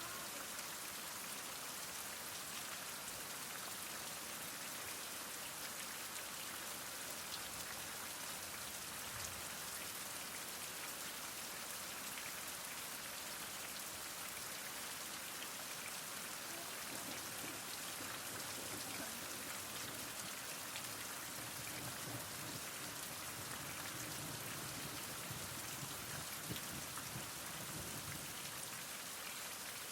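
Heavy rain falling steadily: a dense hiss full of fine drop patter. A faint low rumble comes and goes underneath in the second half.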